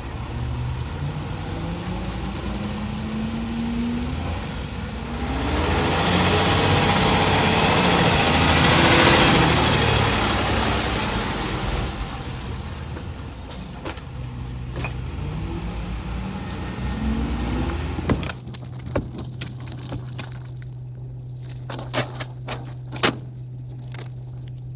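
Garbage truck compacting a load: the engine revs up and down as the hydraulic packer runs, with a loud grinding, crushing noise from about five to eleven seconds in. The engine then drops back to a steady idle, with scattered clicks and knocks near the end.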